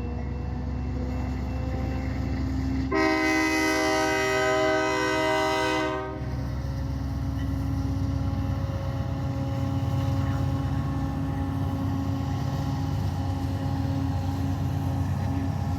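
Diesel locomotives of a container train running steadily, with one long horn blast of about three seconds starting about three seconds in.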